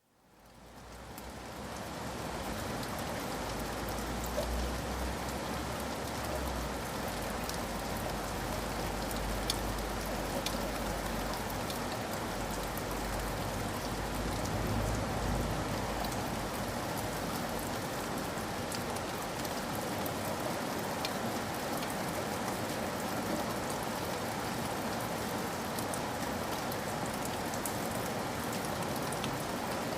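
Steady rain falling on a surface, with scattered individual drops ticking. It fades in from silence over the first two seconds, with a low rumble underneath for roughly the first half.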